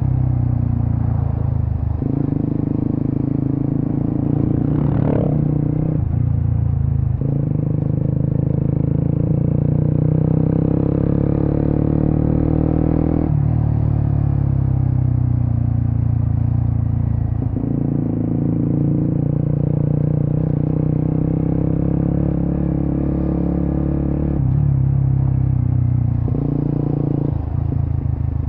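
Suzuki GSX-S150's single-cylinder engine running through an aftermarket Quinze big-volume exhaust on the move. The engine note steps up and down abruptly every few seconds as the throttle opens and closes.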